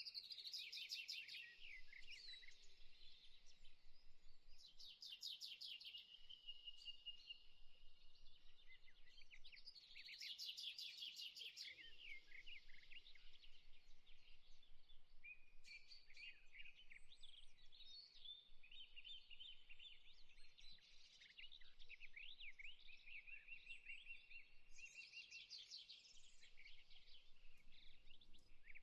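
Faint birdsong: several small birds chirping, with fast trills recurring every few seconds among scattered short chirps.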